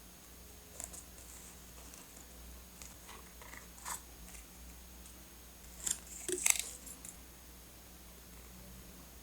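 Scattered small taps and rustles of paper and stationery being handled while a journal is decorated, with a brief cluster of louder crisp crinkles about six seconds in.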